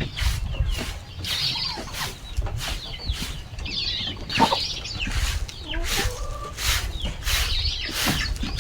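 Chickens clucking and cheeping, with repeated short scraping strokes from their feeding area being cleaned of droppings.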